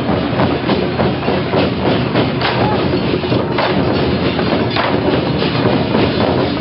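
Loud, dense clatter of a Taiwanese temple procession: rapid, irregular sharp cracks over a steady din, with no break.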